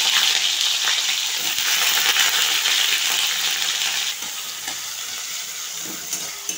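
Cut green beans sizzling in hot mustard oil in a wok, freshly added. The sizzle eases about four seconds in, and a spatula knocks faintly as the beans are stirred near the end.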